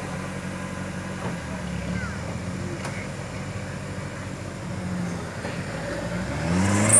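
Off-road vehicle engine running at a steady idle, then revving up with a rising pitch near the end.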